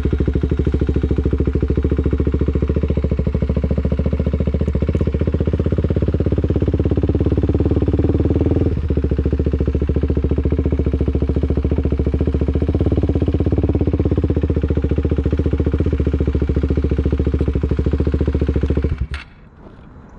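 Motorcycle engine running loud at low, steady revs, with a brief dip about nine seconds in. It cuts off suddenly near the end.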